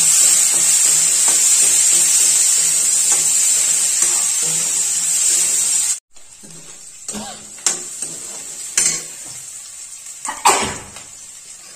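Sliced onions sizzling in hot oil in a steel kadhai, a loud steady hiss. About six seconds in it cuts to quieter frying, with a metal spatula scraping and knocking against the pan four or five times.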